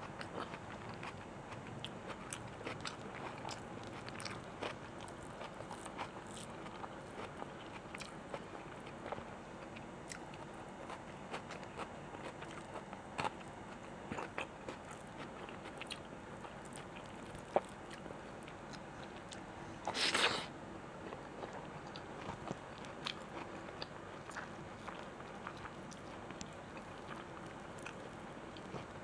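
Close-miked eating of chicken bhuna with rice and salad: steady biting and chewing with many small wet clicks. About two-thirds of the way through there is one louder, noisier burst lasting about half a second.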